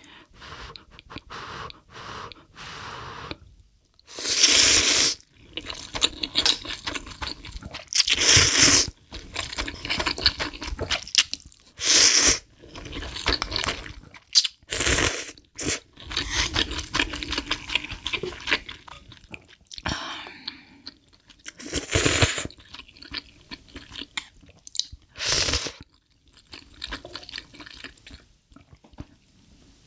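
Close-miked eating of spicy ramyun, gimbap and kimchi: steady chewing and crunching, with about six louder bursts of a second or so spread through.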